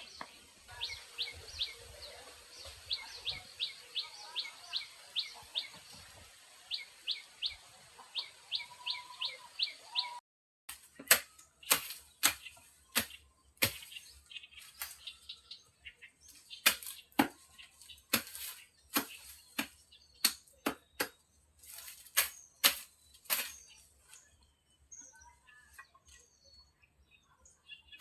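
A bird chirping a quick series of short, falling notes, in groups. After a cut, a string of sharp taps or knocks, irregular, about one or two a second, is the loudest sound, with faint chirps behind.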